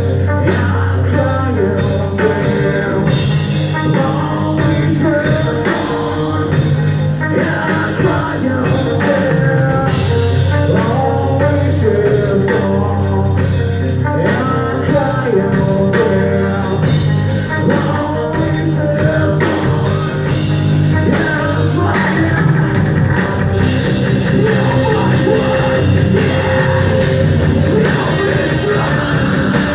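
Rock band playing with drum kit, guitars and singing.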